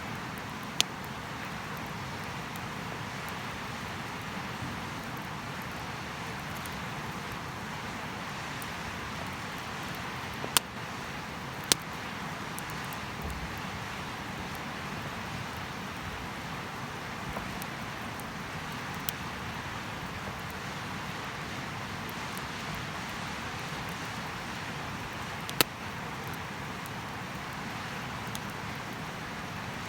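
Wood fire burning with a steady hiss, broken by a few sharp pops and cracks from the burning wood, loudest around the middle.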